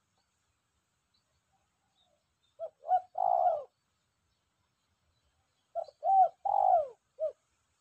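Spotted dove cooing: two phrases about three seconds apart, each made of short notes and a longer coo that falls in pitch. The bird is freshly caught and already calling freely.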